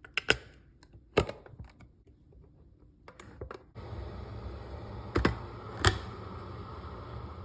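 Single-serve coffee maker: a few sharp clicks and knocks from the machine being set up, then about four seconds in it starts brewing with a steady low pump hum and hiss of hot water, with two more clicks partway through.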